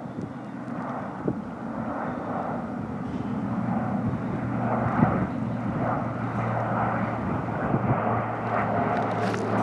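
A fixed-wing airplane's engine drone, growing steadily louder as the plane approaches.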